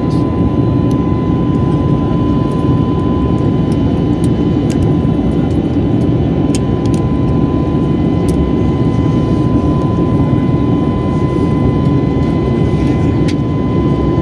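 Steady roar of an Airbus A321neo's jet engines and rushing air heard inside the passenger cabin, with a thin steady whine above it and a few faint ticks.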